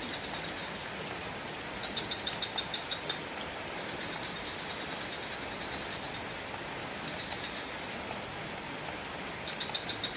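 Steady rain falling. Over it comes a high, fast-pulsing chirp, about eight pulses a second, faint throughout and louder in short bursts about two seconds in and near the end.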